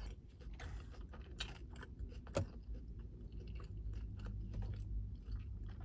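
A person chewing a mouthful of crispy breaded chicken sandwich with faint soft crunches and wet mouth clicks. One sharper crunch comes about two and a half seconds in.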